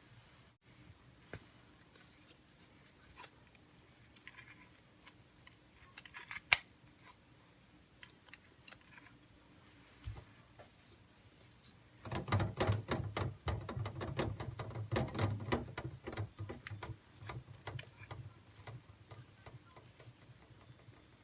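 Sharp scissors snipping and crunching through raw beef pizzle: scattered small clicks at first, then about five seconds of rapid, dense cuts about halfway through.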